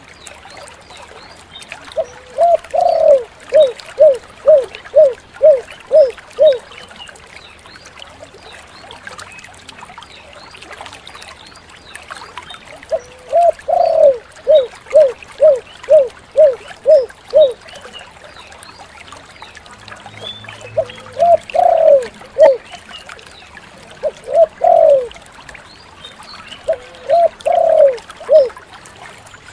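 Spotted dove (tekukur) cooing in phrases: each opens with a longer note followed by a quick run of short repeated coos, about two a second. Long phrases come about two seconds in and again around thirteen seconds, with shorter ones in the second half, over faint chirps of small birds.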